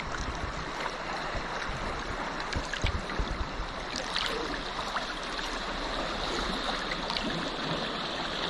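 Sea water lapping and trickling against a sea kayak under way, with small drips and splashes and a few low knocks about three seconds in.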